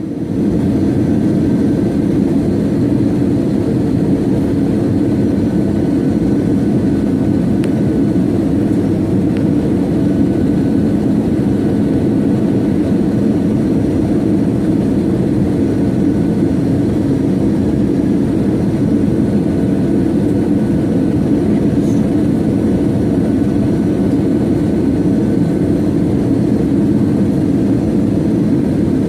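Steady cabin noise of a jet airliner in flight, the engines and rushing air blending into an even low drone.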